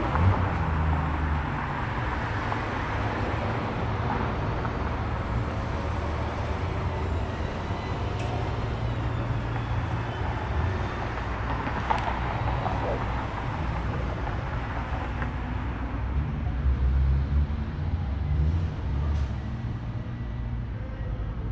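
Car engines running and rolling past, a low rumble that swells louder right at the start and again about three-quarters of the way through.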